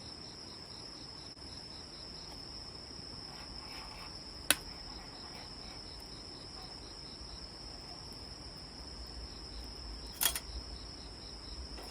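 Crickets chirping steadily: one continuous high trill with a lower chirp pulsing about three times a second. Two sharp clicks stand out, about four and a half seconds in and again near ten seconds.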